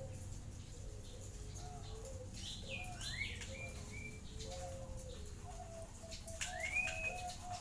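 Several zebra doves (perkutut) cooing, with short, low, repeated notes overlapping. Higher rising chirps from other birds sound twice, about three seconds in and again near the end.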